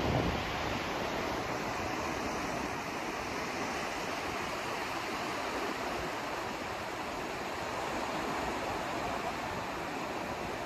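Steady white noise: an even, unchanging rushing hiss.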